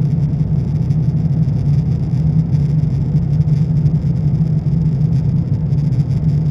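Steady cabin noise of an Airbus A350-900 in flight: an even, loud, low rumble of engines and airflow with no change.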